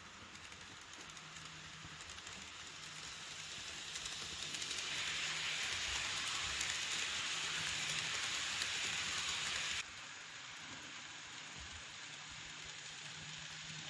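N-gauge model train running on the layout track: a fine, rain-like patter of tiny wheels clicking over the rails with a faint motor hum, growing louder as it passes close, then dropping abruptly about ten seconds in.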